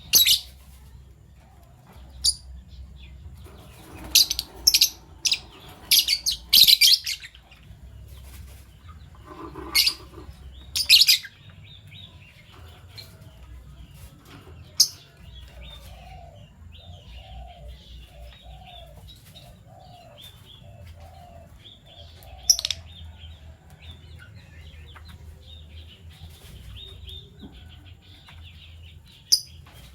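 Fischer's lovebirds chirping: sharp, piercing calls come singly and in quick clusters, densest in the first third, with softer twittering between them. Partway through, a run of about eight lower, softer notes repeats evenly over several seconds.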